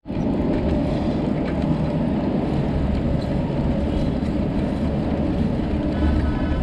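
Steady rumble of wind buffeting and road noise on a bicycle-mounted action camera while riding, loudest in the low end.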